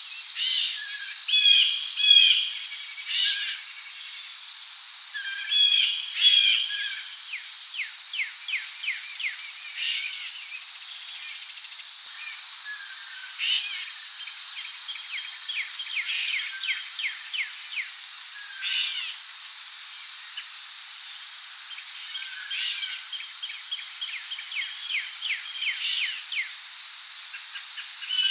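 Tropical rainforest ambience: a steady high-pitched drone of crickets and other insects, with birds calling over it in short whistled phrases and several rapid chattering trills.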